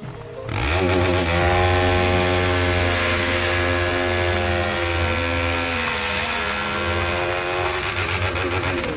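TVS Apache RR 310's single-cylinder engine revving up about half a second in, then holding steady high revs under a light, held throttle.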